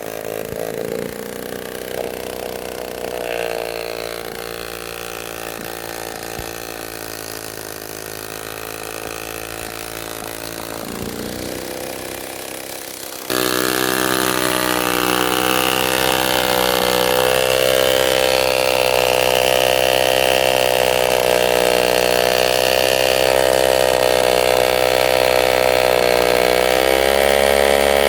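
A 1946 Power Machinery chainsaw's engine running steadily, its pitch wavering slightly. About halfway through it becomes abruptly louder.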